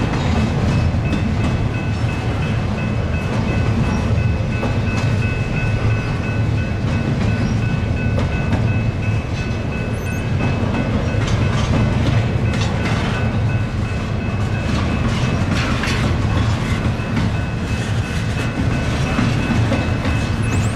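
Cars of a long Norfolk Southern intermodal freight train rolling past: a steady low rumble of steel wheels on rail, with scattered clicks from the rail joints and a thin steady high tone above it.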